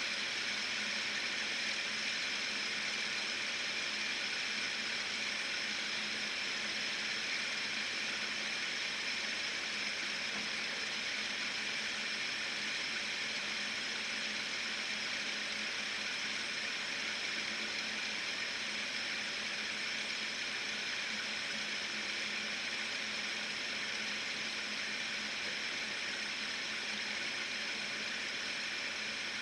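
Fidget spinner whirring steadily on its ball bearing, a continuous high hiss that gets slightly quieter toward the end as the spin slows.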